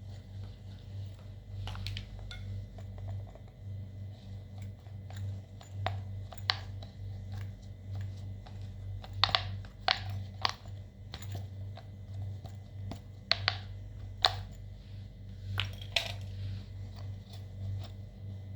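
Slime being mixed and worked by hand, giving scattered sharp clicks and pops, several of them in quick clusters in the second half, over a steady low hum.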